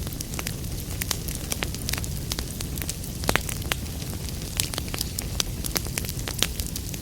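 Fireplace fire crackling: irregular sharp pops and snaps over a steady low rumble of the flames, with a louder pop about three seconds in.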